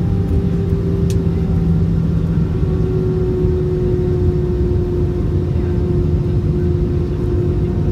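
Airbus A320 cabin noise on final approach: a steady loud rumble of engines and rushing air, with a steady hum that sinks slightly in pitch.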